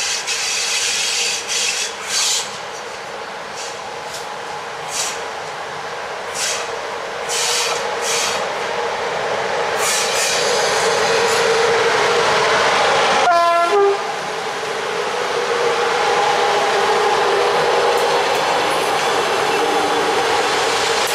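A CFR EA-class electric locomotive hauling a passenger train approaches and runs past, with a string of short high-pitched bursts over a steady hum in the first half. About two-thirds of the way through comes one short blast of the locomotive's horn, then the steady rolling noise of the coaches passing close by.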